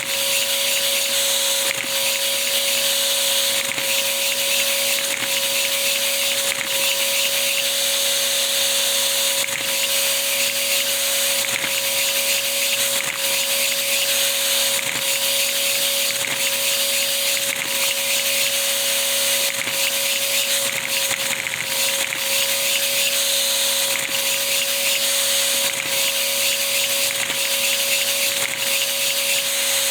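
Camshaft-driven three-cylinder Lego vacuum engine running steadily on suction: a constant hiss of rushing air over a steady whine, with faint irregular clicks.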